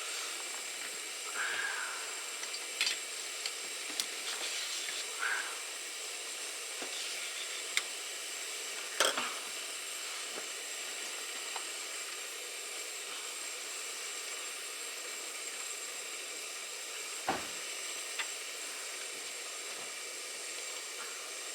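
Steady hiss of a hot pot simmering over the heat, with a few light clinks of utensils.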